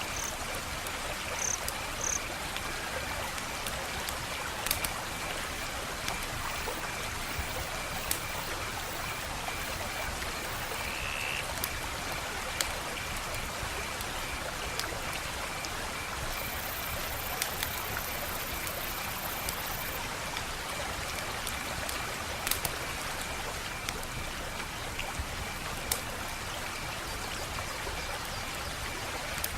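Wood fire crackling steadily, with occasional sharp pops every few seconds.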